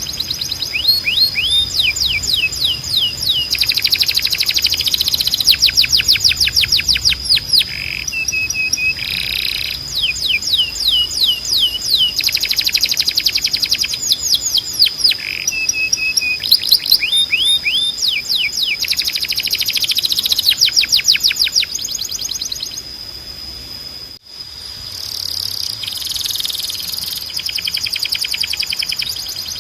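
Domestic canary singing: fast trills of repeated down-sweeping notes in phrases of a second or two, with a steady high tone running underneath. The song drops out briefly about 24 seconds in.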